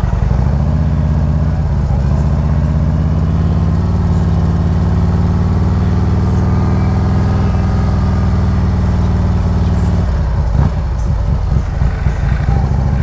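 Harley-Davidson V-twin motorcycle engine running steadily at low riding speed. About ten seconds in its note goes rough and uneven for a couple of seconds, then steadies again.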